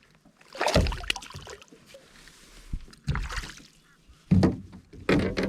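Bumps, knocks and water sloshes from handling things on a fishing kayak, in four short bursts.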